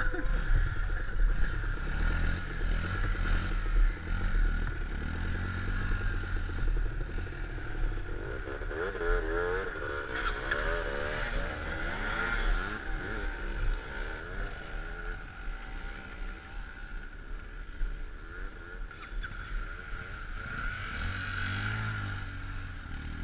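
A motor vehicle driving: a steady low engine and road rumble with a steady high whine over it, the engine note wavering in the middle.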